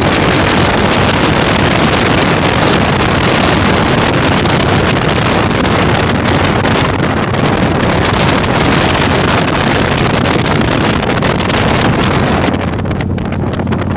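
Heavy wind noise buffeting the microphone on a moving Yamaha Virago 1100 motorcycle, with the bike's V-twin engine running steadily underneath at cruising speed. The high hiss eases a little near the end.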